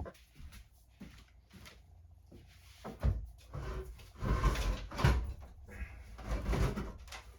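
Knocks and scraping as a heavy marble vanity top is worked loose and shifted on its wooden cabinet. There is one sharp knock about three seconds in, then two stretches of scraping and rattling.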